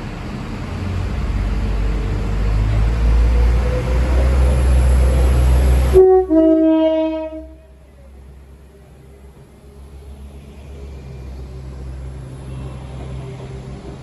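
Diesel multiple unit running into the platform, its rumble growing louder as it nears. About six seconds in the rumble drops away abruptly and a two-note horn sounds briefly; after that a quieter rumble and hum continue as the carriages roll past.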